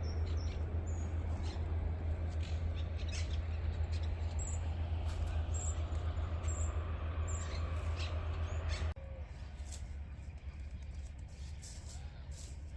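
Small birds chirping in short, high notes over a steady low hum. The hum drops away about nine seconds in.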